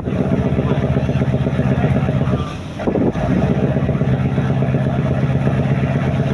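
A fishing boat's engine running steadily with a fast, even firing pulse, briefly dropping in level a little past halfway before picking up again.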